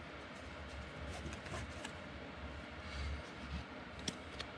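Faint clicks and light rustling of trading cards being handled and flipped through one after another, over a low steady hum.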